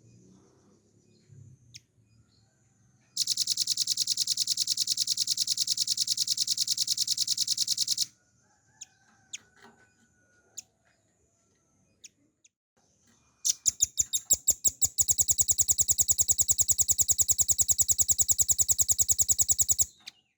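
Velvet-fronted nuthatch (rambatan paruh merah) singing its rapid rattling trill twice, each run of fast, evenly repeated high notes lasting about five seconds. The second trill opens with a few slower notes that quickly speed up, and faint short chips come between the two.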